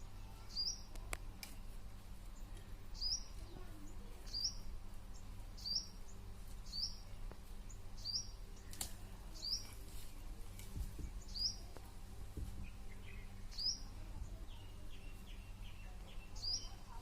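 A bird repeating a short, high chirp about once every second or two, over a steady low background hum.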